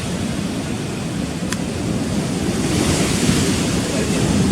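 Rough sea surf churning against rocks, with wind buffeting the microphone; the surf swells louder about three seconds in.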